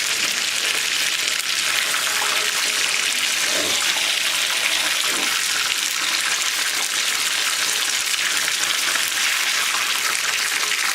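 Chicken pieces frying in hot oil on raised heat, a steady sizzle as they crisp at the end of frying.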